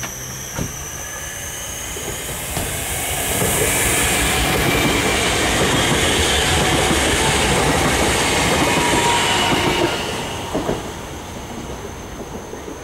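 Passenger train running through the station: the rumble of wheels on rail builds over a couple of seconds, stays loud for about seven seconds as the cars pass, then fades, with a few wheel clacks near the end. Crickets chirp steadily in the background.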